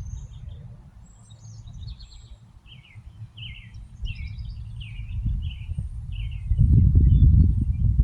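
Bluebird singing a string of short, soft warbled notes. About six and a half seconds in, loud low scuffling and thumps close to the microphone take over.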